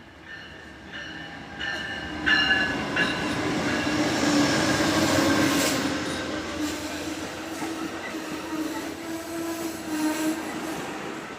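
A train running past at the station platform, growing louder over the first couple of seconds, loudest a few seconds in, then easing off.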